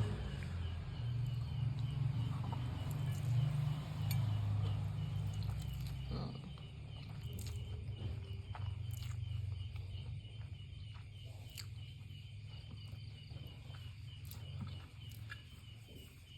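Close-miked chewing of instant noodles: a low, muffled mouth sound that is heavier for the first six seconds, then quieter with small wet clicks. Under it, an insect chirps steadily in an even pulse.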